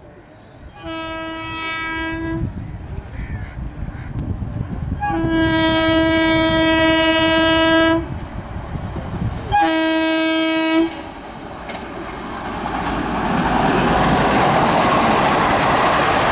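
Indian Railways electric locomotive sounding its horn three times on one steady pitch: a short blast, a long one, then a short one. Then the express's ICF coaches pass close by, and the wheel rumble and clickety-clack over the track grow louder toward the end.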